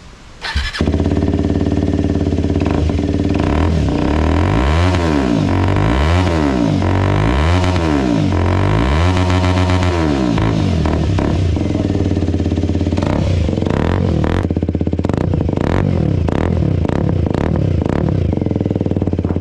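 Aprilia SX125's single-cylinder four-stroke engine running through an Akrapovic exhaust with its dB killer removed. It starts just under a second in, is blipped up and down four times in quick succession, then runs steadily with sharp crackles near the end.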